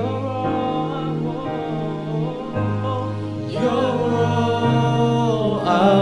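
Worship music: sustained keyboard chords that change a couple of times, with a voice singing drawn-out phrases over them.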